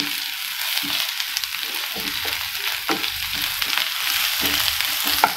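Chopped onions, curry leaves and ginger-garlic paste sizzling in hot sesame oil in a frying pan, stirred with a wooden spatula that scrapes and knocks against the pan many times.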